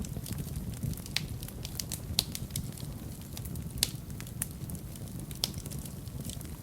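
Fire burning in a fireplace, crackling with irregular sharp pops over a low, steady rumble of the flames. Two pops stand out as loudest, a little after two seconds and near four seconds in.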